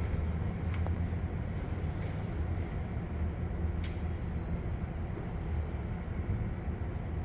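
A steady low mechanical hum with a rumbling background, broken by a couple of faint clicks.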